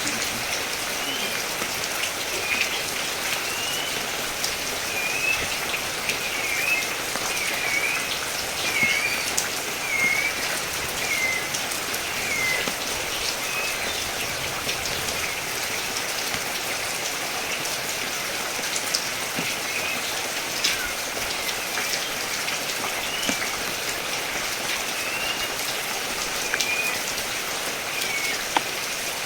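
Steady rain falling, a dense even hiss with scattered sharper drop ticks. Short chirps sound over it, mostly in the first half.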